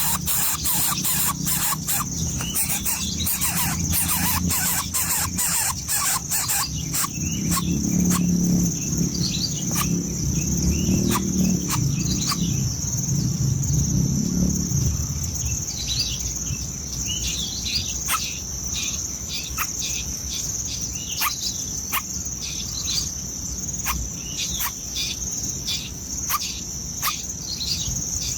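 Steady high-pitched insect drone with birds chirping over it in many short, sharp calls. A low rumble joins in for several seconds in the first half.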